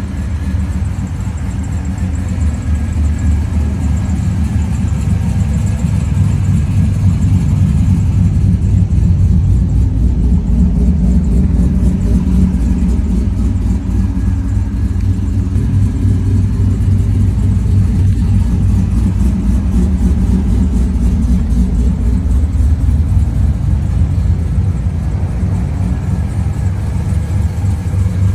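The engine of a 4th-generation F-body (Camaro/Firebird) running steadily with a misfire.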